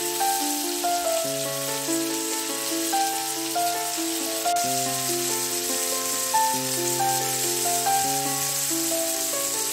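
Flour-dredged chicken hearts sizzling as they fry in oil and butter in a non-stick pan, a steady hiss. Background music with a melody and slow bass notes plays over it.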